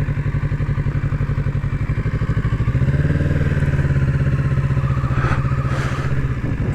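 Kawasaki Z650's parallel-twin engine running at low revs with a steady pulsing beat, picking up slightly about three seconds in and then holding steady.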